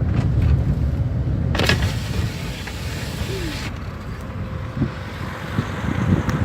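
Car driving, heard as a steady low road rumble, with a rushing hiss that swells about one and a half seconds in and lasts about two seconds.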